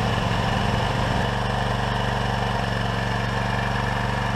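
Small portable backup generator's engine purring, running steadily just after start-up. It was started after sitting unused for a while, and it runs smoothly.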